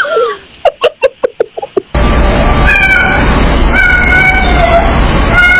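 A cat meows with a falling pitch, then gives a quick run of short calls. About two seconds in, a loud, continuous noisy stretch begins, with drawn-out wavering cat yowls running through it.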